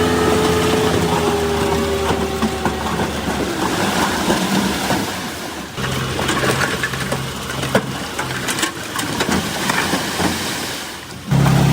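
Diesel engines of heavy earthmoving equipment, a bulldozer and dump truck, running under load, in short clips joined by abrupt cuts. In the first part the engine note eases down in pitch; later the machine sound is rougher, with scattered clanks and rattles.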